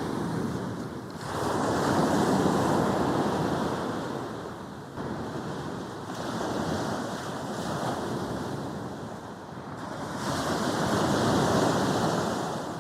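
Sea waves breaking and washing up a beach, the surf swelling and easing in surges every few seconds, with wind on the microphone.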